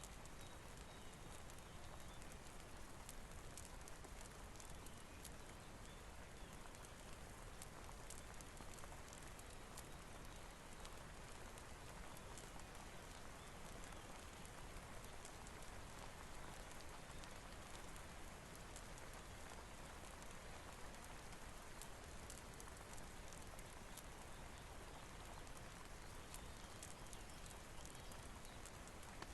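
Steady, faint rain mixed with a crackling fireplace, many small sharp crackles and drips scattered over an even hiss.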